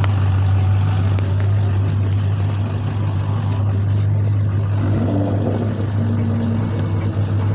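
Car engine running steadily at idle, a constant low drone.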